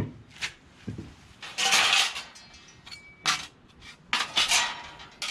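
Thin stainless-steel plates and parts of a knock-down fire pit clinking and scraping against each other as they are handled, in several separate bursts with a short metallic ring here and there.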